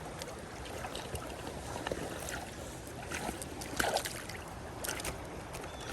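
Steady rush of flowing creek water in the rain, with scattered light taps and small splashes.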